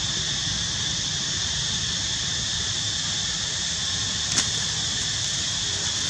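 Steady outdoor background noise: a high, even hiss over a low, fluttering rumble, with one sharp click about four seconds in.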